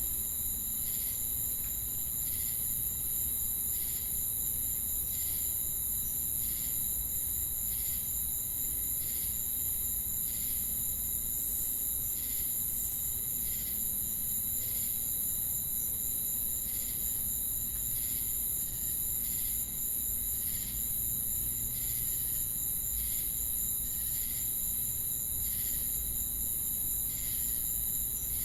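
Chorus of crickets and cicadas: a continuous high-pitched shrill trill over a steady thin tone, with short chirps repeating about once a second.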